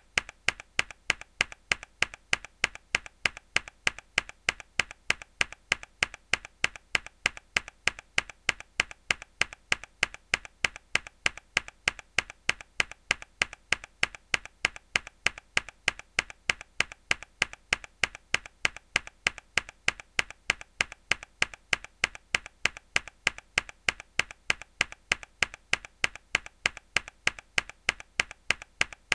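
A mechanical keyboard key pressed hard, the same sharp click repeated at an even rhythm several times a second.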